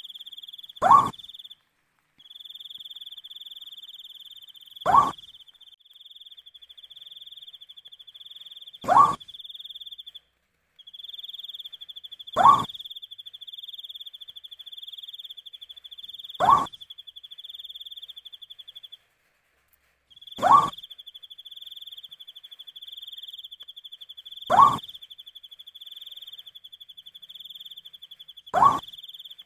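An owl giving a short, rising hoot at a steady pace, eight times about four seconds apart, over crickets trilling steadily in a high pitch with brief breaks.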